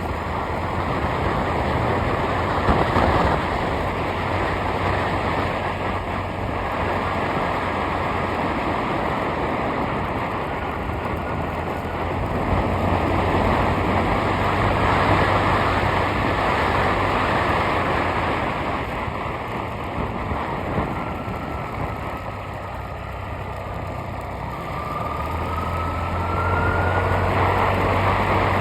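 A vehicle on the move: steady engine hum with road and wind noise, and a faint rising whine near the end.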